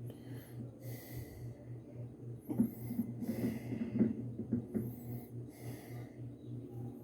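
Washing machine starting a drain-and-spin cycle: a low hum pulsing about three times a second, with bursts of rushing noise and a few clicks, busiest in the middle.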